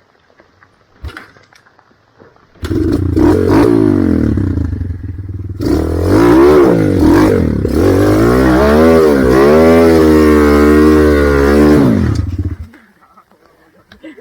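Motorcycle engine revving, its pitch repeatedly rising and falling for about ten seconds. It starts suddenly a few seconds in, dips briefly, and cuts off sharply a little before the end.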